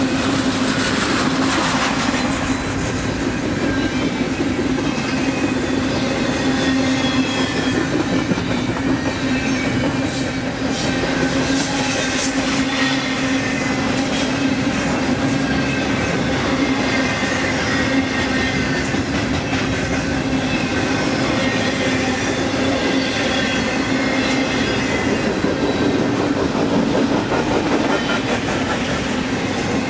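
Train cars rolling steadily past close by under a continuous low drone, with a thin wheel squeal and wheels clicking over the rails, a cluster of clicks about a third of the way in.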